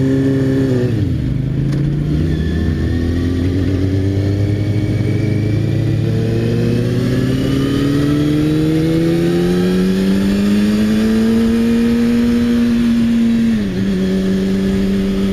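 Motorcycle engine heard from the rider's seat over wind rush. The revs dip about a second in, then climb steadily for about ten seconds, hold briefly, and fall sharply near the end.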